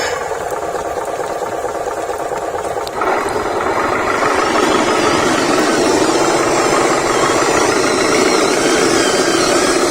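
Remote-control model truck running, its small motor and gearing whirring with a rattle. It gets louder about three seconds in.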